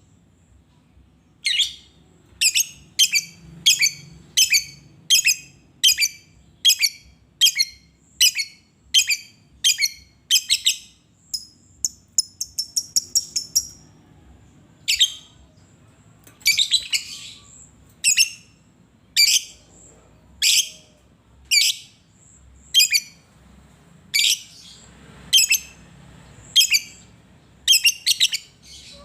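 Lovebird chirping: loud, sharp, high calls repeated about one or two a second, with a fast run of rapid chirps around the middle.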